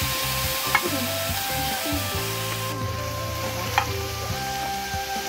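Marinated chicken pieces sizzling in oil on a large flat tawa over a wood fire, while a metal spatula scrapes and turns them. Two sharp clinks of the spatula on the pan come about a second in and near four seconds.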